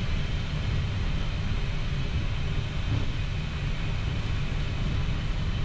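Steady low rumble on the flight deck of a Boeing 737 MAX 8 lined up for takeoff, its CFM LEAP-1B engines at idle, with a faint steady high hum over it.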